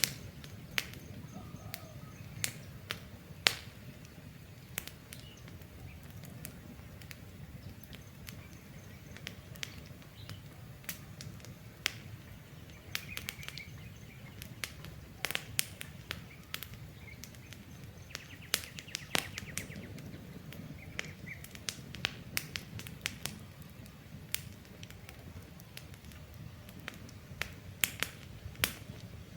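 Wood campfire crackling, with irregular sharp pops and snaps over a steady low rumble of burning. A few birds chirp faintly now and then.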